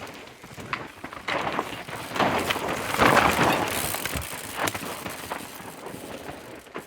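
A mountain bike riding over a rocky, dusty trail: tyres crunching on dirt and rock, with sharp clicks and rattles from the bike. It gets louder as the rider comes closest, about two to three seconds in, then fades.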